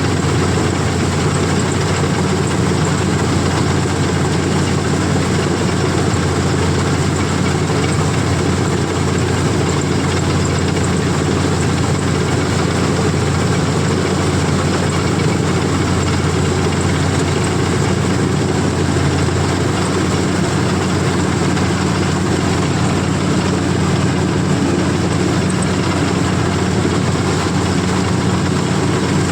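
CLAAS combine harvester's diesel engine running steadily, a continuous low drone with machinery noise over it.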